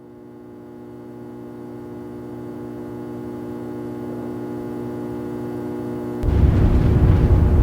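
A steady hum of several held tones, swelling slowly louder, cut off about six seconds in by a sudden loud low rumble.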